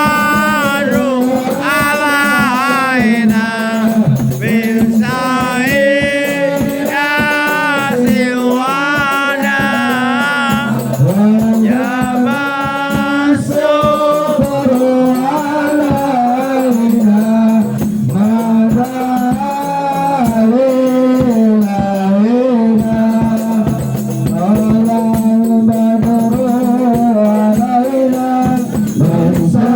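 Devotional Islamic sholawat singing: a solo voice carrying a long, ornamented melody with wavering held notes, over a sustained lower accompaniment and shaken rattling percussion.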